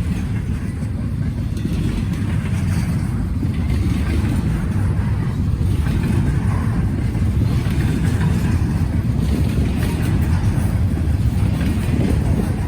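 Wind buffeting the microphone in a steady, choppy low rumble, over the noise of a passing freight train.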